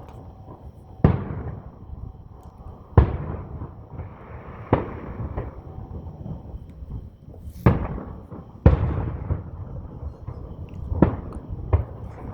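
Fireworks exploding overhead: about seven sharp bangs every second or two, each followed by a rolling echo, with crackling between them.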